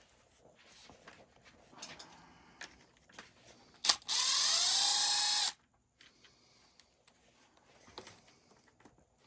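Small electric driver running a screw for about a second and a half, its whine rising in pitch as it spins up, just after a sharp click. Faint clicks of small parts being handled come before and after it.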